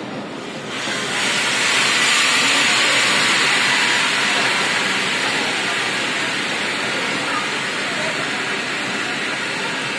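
Pakistan Railways passenger coaches rolling slowly past along the platform track. A loud, steady hiss sets in about a second in and eases a little.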